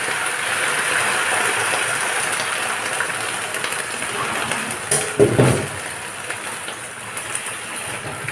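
Sweet potato leaves sizzling in hot oil in a frying pan, the sizzle slowly dying down. About five seconds in there is a click and a low knock, the loudest sound; near the end a spatula starts scraping and stirring the leaves.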